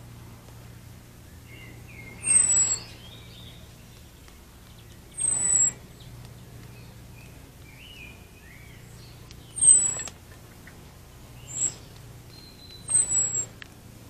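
Garden birds calling: short, loud, harsh calls every few seconds, each topped by a thin high whistle that falls in pitch. Fainter twittering song runs between them over a low steady hum.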